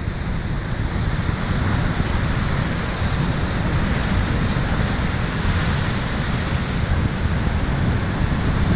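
Steady rush of the Gásadalur waterfall and the sea surf below it, with wind buffeting the microphone in a gusty low rumble.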